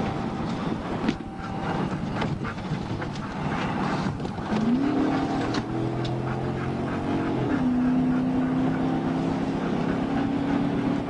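A car engine accelerating hard over steady road and wind noise. Its pitch climbs from about four and a half seconds in, drops at a gear change a little past the middle, then climbs slowly again.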